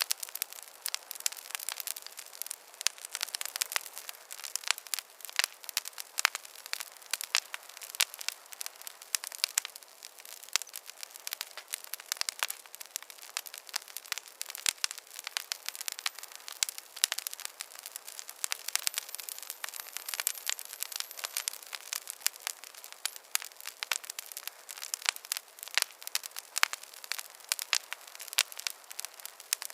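Wood fire crackling steadily in a fireplace: a dense, irregular stream of sharp pops and snaps over a soft hiss.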